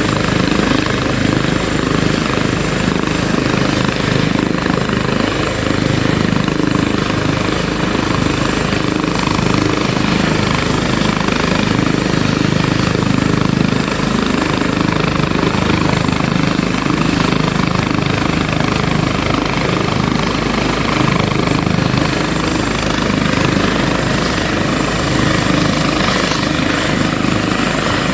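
Trauma helicopter running with its rotor turning: a loud, steady rotor and engine noise that holds the same level throughout.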